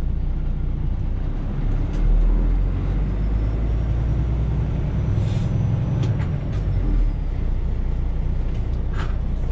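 Semi truck's diesel engine running, heard from inside the cab as a steady low rumble that swells about two seconds in and again around the middle. There is a brief hiss about five seconds in.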